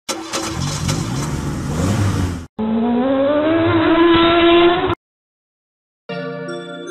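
A car engine revving hard, then after a brief break a second engine run rising steadily in pitch as it accelerates, cutting off suddenly about five seconds in.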